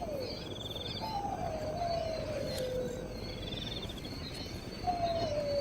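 Wild bird calls: two long, slow, low-pitched falling whistles, one about a second in and another near the end, with a short high trill twice and faint high chirps behind them.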